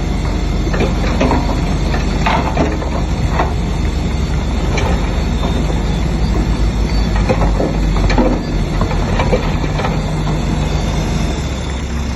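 Shantui DH7C3 crawler bulldozer working: a steady diesel engine hum under irregular metallic clanks and squeals from its steel tracks.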